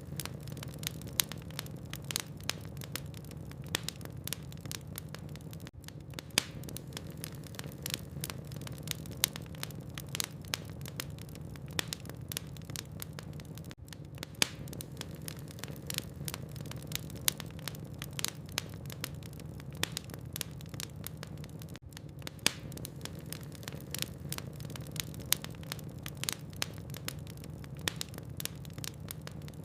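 Wood fire crackling: irregular sharp pops and snaps of burning logs, several a second, over a steady low rumble.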